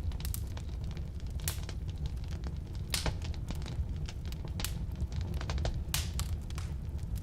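Firewood burning in a fireplace: a steady low rumble of flames with frequent sharp crackles and pops, a few louder pops spread through it.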